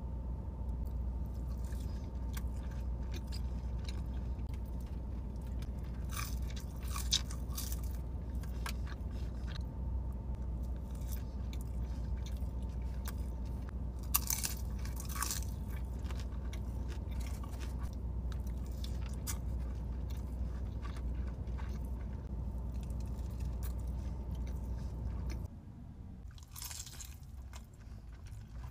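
A person chewing and crunching food close to the microphone, with a few louder crisp bites, over a steady low hum. About three seconds before the end the hum cuts off, and the crunching goes on more quietly.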